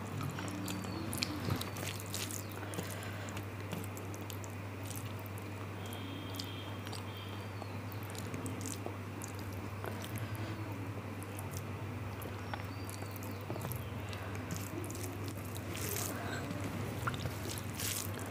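Close-miked eating sounds: chewing mouthfuls of rice and curry, with many small wet clicks and smacks, over a steady low hum.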